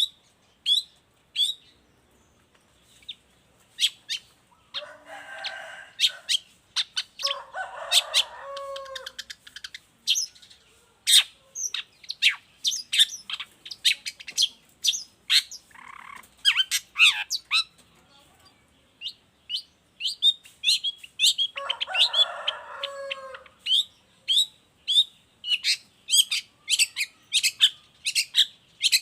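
Long-tailed shrike (cendet) singing vigorously: a fast run of sharp, high chirps, broken by harsh rasping calls about 5, 8 and 22 seconds in.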